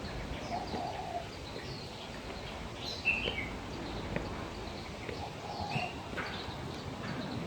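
Aviary birds chirping in short, scattered calls over a steady background hiss, with a louder burst of chirps about three seconds in.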